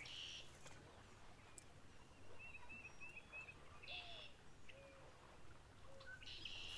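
Faint birdsong over quiet outdoor ambience: short chirping phrases, including a quick run of five chirps a little after two seconds in.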